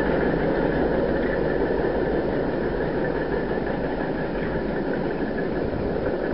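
Steady rumble of a train rolling along the track, slowly fading as it moves away.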